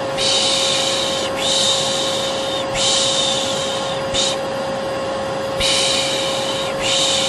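Vacuum cleaner running with a steady hum, overlaid by a person's repeated 'shh' shushing to soothe a baby to sleep. Each long shush lasts about a second and they come back to back. About four seconds in there is one brief shush and then a pause of about a second.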